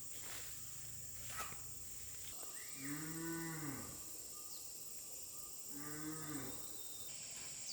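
A cow mooing twice, two short calls that each rise and fall in pitch, about three seconds apart.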